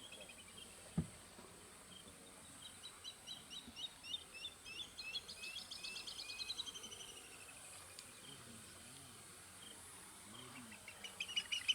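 Wild birds calling: runs of quick, high chirping notes, a falling trill midway, and a louder burst of dense chattering near the end. One low thump about a second in.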